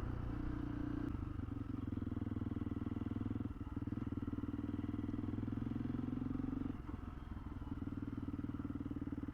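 Honda CRF300L's single-cylinder four-stroke engine running steadily at low revs, a little quieter from about seven seconds in.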